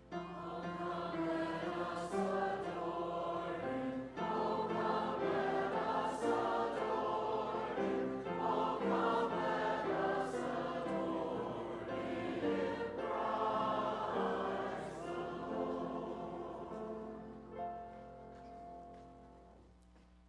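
Church congregation singing a hymn together in held phrases a few seconds long, dying away near the end.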